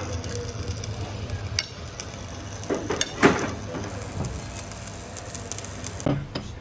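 Workshop sounds of metal engine parts and tools being handled: scattered clicks and knocks over a steady hiss, with a louder clatter about three seconds in.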